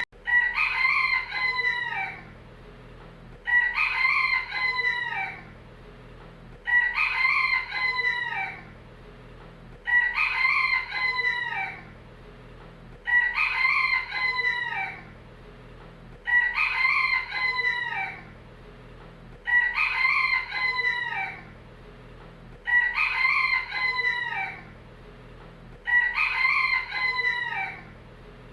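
Rooster crowing over and over, the same crow repeated about every three seconds, each crow lasting about two seconds.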